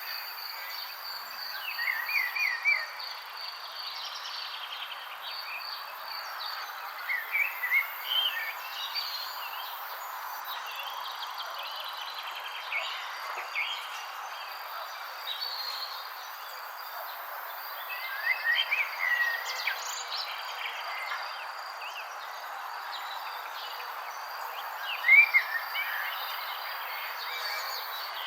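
Songbirds chirping in short, quick phrases every few seconds, loudest near the end, over a steady pulsing insect trill and an even background hiss.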